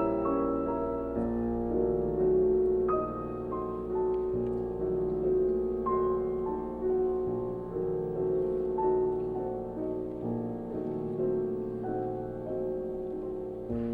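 Slow, soft piano music: sustained notes and chords, with a new note or chord about every second.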